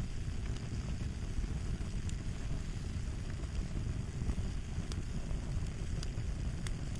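Fire crackling: a steady low rumble of burning with scattered sharp pops and snaps.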